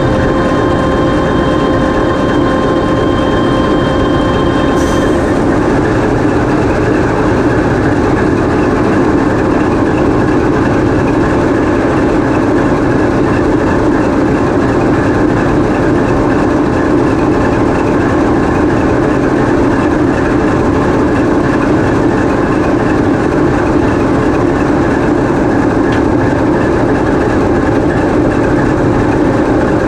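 The V16 diesel engine of a TEP70 passenger locomotive running under load, heard close up inside its engine room as a loud, steady, dense drone. Thin whine tones mixed into it stop about five seconds in.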